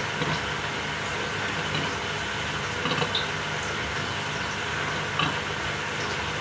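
Samsung 6.5 kg top-loader washing machine running, a steady whirring rumble with a low hum and a few faint clicks.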